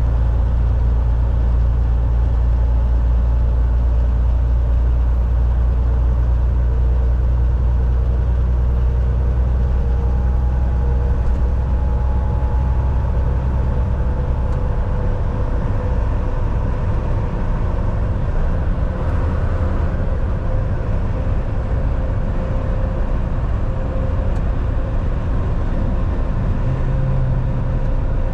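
Volvo VNL 760 semi truck heard from inside the cab while driving: a steady deep engine drone over road and tyre noise, with the low engine note changing about halfway through.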